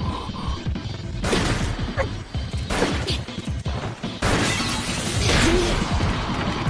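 Dramatic anime soundtrack music under crashing, smashing impact effects, with about three sudden heavy hits.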